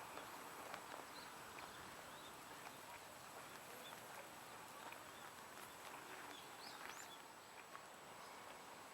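Faint outdoor ambience with scattered short, high bird-like chirps and a few light ticks.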